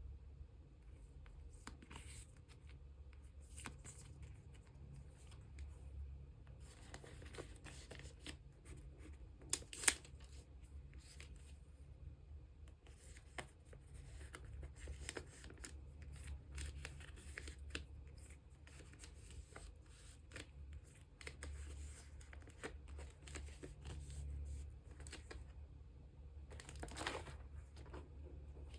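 Plastic sleeves and photocards being handled: repeated soft rustles and scrapes as cards slide in and out of sleeves, with two sharp clicks about ten seconds in and a longer crinkle near the end, over a low steady hum.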